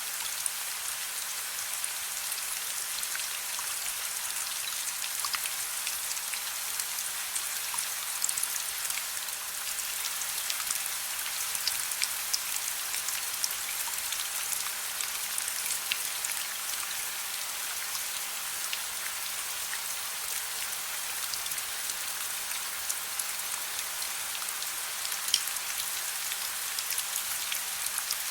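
Steady gentle rain, a constant hiss with many individual drops ticking close by on a surface, and one sharper drop about 25 seconds in.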